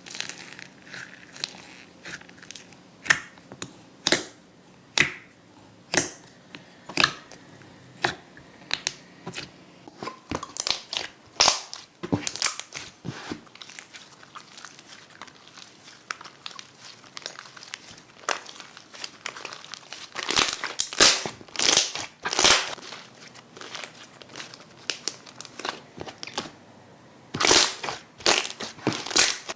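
Slime being pressed and worked by hand, crackling and popping. Sharp pops come about once a second at first, then thicker clusters of crackles later.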